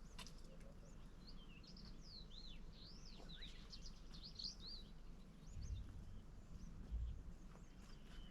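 Small birds chirping in quick, twittering phrases over faint steady outdoor background noise, with two dull low thuds in the second half.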